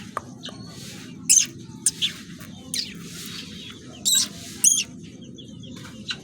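Birds chirping: about six short, sharp, high-pitched chirps, the loudest around a second and a half in and around four seconds in, over a steady low hum.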